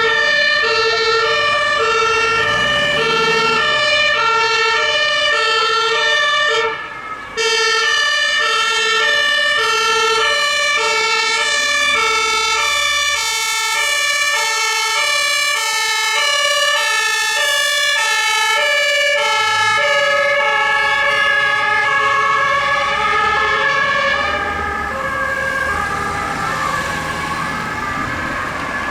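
German two-tone emergency sirens (Martinshorn), more than one sounding at once, each switching back and forth between a high and a low tone. Vehicle engines run underneath. The sound drops out briefly about seven seconds in and fades over the last few seconds.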